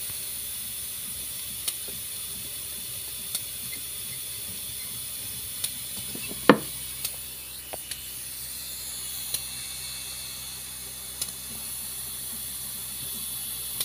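A steady high hiss with scattered light clicks and one sharper click about six and a half seconds in, from a new filter drier being fitted by hand onto a refrigerator's condenser pipe.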